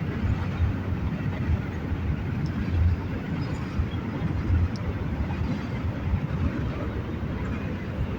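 Norfolk Southern double-stack freight train passing, a steady low rumble of the cars rolling by with a few faint clicks.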